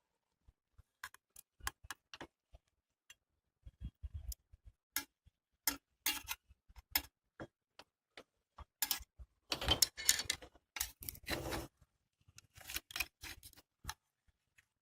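A cooking utensil clicking and scraping against a frying pan as fried chicken pieces are turned over, in irregular bursts that are busiest about two thirds of the way through.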